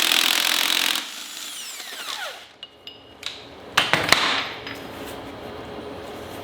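A power tool runs in short bursts while the engine is being taken apart: a loud burst in the first second and a shorter one about four seconds in.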